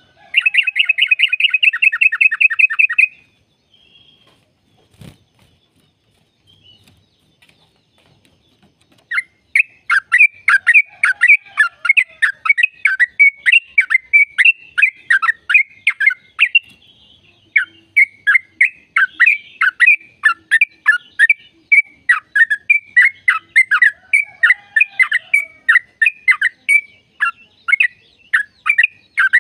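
Yellow-vented bulbul (trucukan) singing its long, rapid 'ropel' song: first a fast rattling run of notes for about three seconds, then after a pause of several seconds a long chattering series of quick, falling notes, a few each second.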